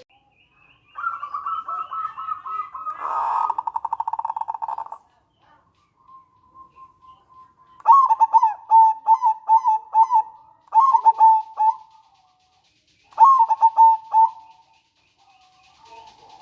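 Zebra dove (perkutut) calling: a drawn-out note that breaks into a fast rattling trill, then after a pause two runs of quick staccato coos.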